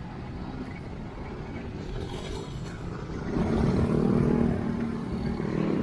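Traffic and wind noise on a road ridden by bicycle, with a motor vehicle passing close by about three seconds in, growing louder and then fading.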